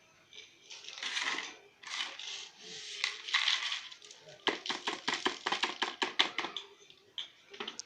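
Homemade plastic-bottle vacuum cleaner: three short rushes of hiss, then a quick run of light clicks and rattles, about seven a second, as small hard bits strike the plastic, with a couple of single clicks near the end.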